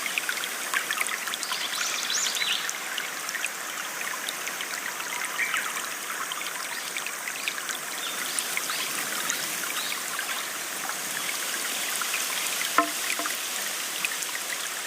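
A small stream flowing and trickling steadily, with many small splashes, a few brief bird chirps over it, and one sharp tick near the end.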